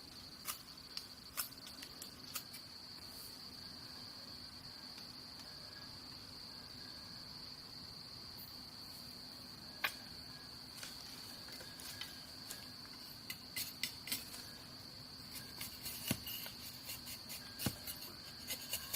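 Insects chirring in one steady, unbroken high drone. Scattered light clicks and taps come through it, more often near the end.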